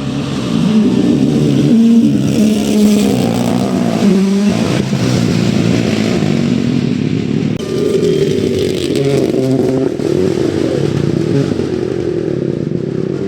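Rally car engine revving hard. Its pitch climbs and drops repeatedly with gear changes as the car passes, with a sharp shift about four and a half seconds in.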